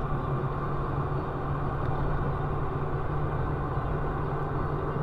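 Steady engine and road noise of a car driving, picked up by a dashcam, with an even low hum and no impact.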